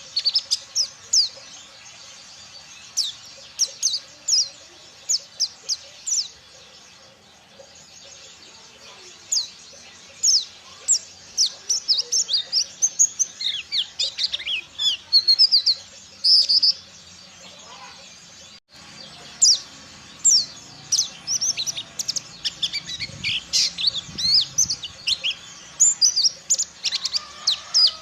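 A pleci dakun white-eye singing its busy, varied 'ngalas' wild-style song. Runs of rapid, sharp high chirps and twitters come in bursts, with brief pauses between the phrases.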